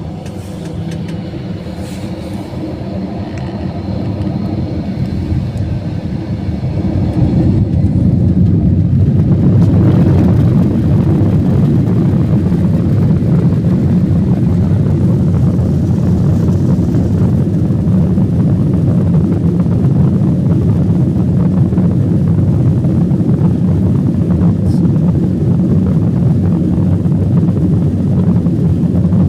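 Airbus A321's jet engines spooling up to takeoff thrust, heard from inside the cabin: the noise grows steadily louder over the first several seconds, then settles into a loud, even, deep rumble of the takeoff roll.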